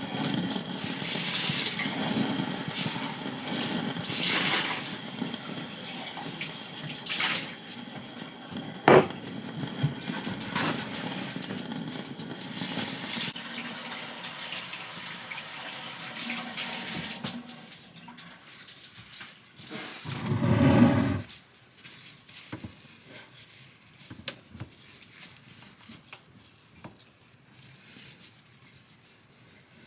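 Water running from a kitchen tap into a sink, with knocks and clinks of items being handled and one sharp click about 9 seconds in; the water stops about 17 seconds in. A brief loud low rumble follows about 20 seconds in, then only faint ticks.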